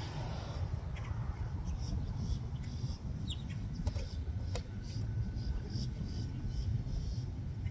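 An insect chirping in short, evenly spaced pulses over a steady low outdoor rumble, with two sharp clicks near the middle.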